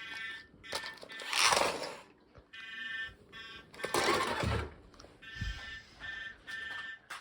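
An electronic buzzing tone that sounds in several bursts of a second or so each, with rustling handling noises in between.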